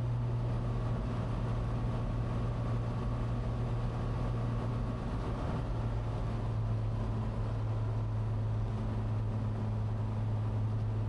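Cessna 182T's Lycoming IO-540 six-cylinder engine and propeller droning steadily on final approach.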